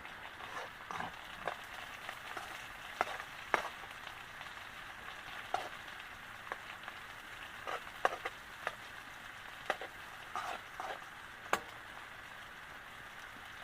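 Red salted peda fish frying in hot oil in a pan: a steady sizzle broken by scattered sharp pops and taps, the loudest about three and a half, eight and eleven and a half seconds in.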